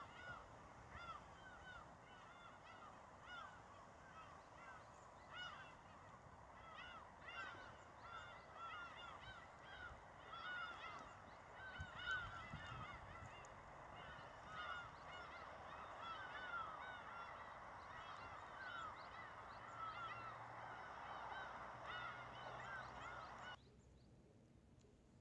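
A large flock of birds calling continuously, many overlapping short honking calls, until the sound cuts off abruptly near the end.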